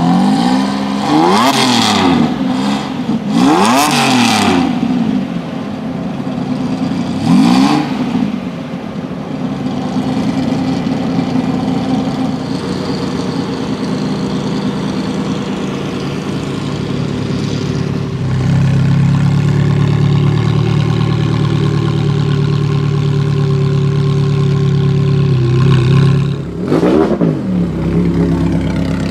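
Supercar engine revved in sharp throttle blips, each rising and falling quickly in pitch, three times in the first several seconds. It then idles steadily, the idle getting louder partway through, and is blipped again near the end.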